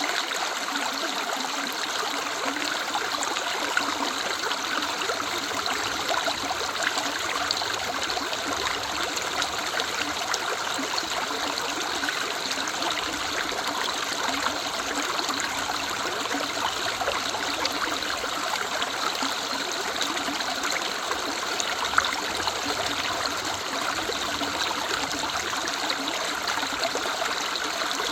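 River running steadily, a continuous rush and trickle of flowing water, with one brief sharp tick late on.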